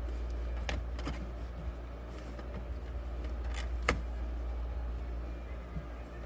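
A few sharp clicks and taps from handling the rubber shifter boot and shifter parts by hand, the loudest about four seconds in, over a steady low hum.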